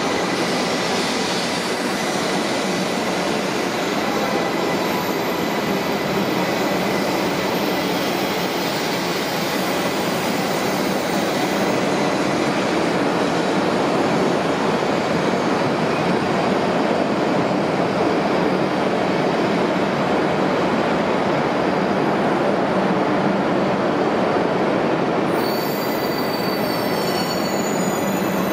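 E2 series Shinkansen train rolling slowly alongside the platform as it pulls in to stop, a steady rushing of wheels on rail. Short high-pitched squeals come in near the end as it brakes.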